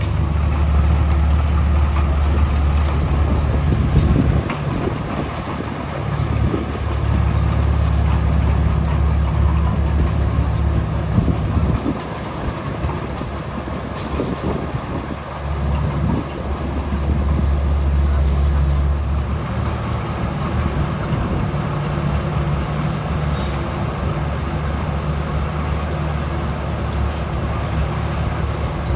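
Heavy diesel engine of road-building machinery running steadily, its low hum swelling and easing several times as the load changes.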